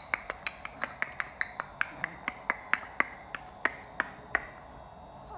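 A quick series of sharp clicks or taps, about four to five a second, irregularly spaced, stopping after about four and a half seconds.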